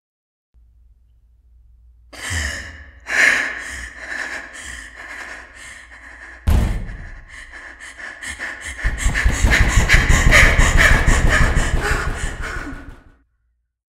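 Staged car-crash sound effects: a low rumble, a couple of impacts, a sharp hard hit about six and a half seconds in, then several seconds of dense crunching and rattling that cuts off suddenly.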